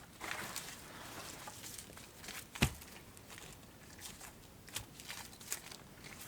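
Rustling with scattered cracks and clicks of sticks and twigs being handled and stepped on, with one sharp knock a little over two and a half seconds in.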